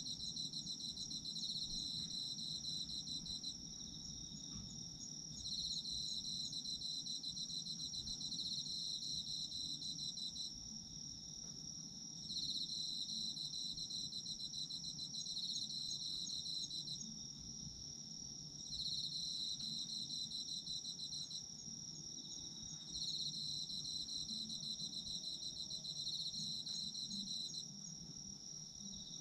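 Autumn crickets singing: one high trill runs on without a break, while another sings in pulsing phrases of a few seconds each, separated by short pauses.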